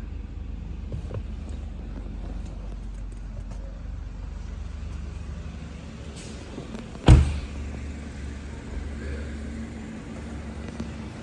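A 2018 BMW 530i's 2.0-litre turbocharged four-cylinder running with a steady low rumble. One loud, sharp thump comes about seven seconds in.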